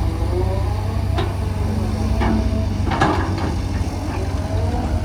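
Diesel engines of heavy road-construction machinery running steadily, with a wavering whine and three metallic knocks, the sharpest about three seconds in.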